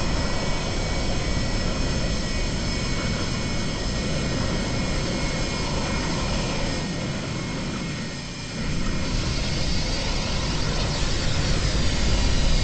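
Boeing 737-200's Pratt & Whitney JT8D jet engines running, a steady dense rush with several high whining tones on top, as heard on board the aircraft. The sound dips briefly about eight seconds in and then comes back a little louder.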